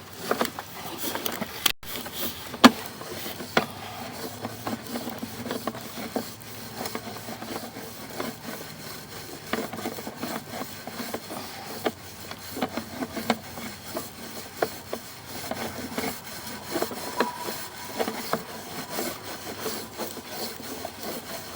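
Sewer inspection camera and its push rod being fed along the lined sewer pipe: irregular scraping and rubbing with scattered knocks and clicks.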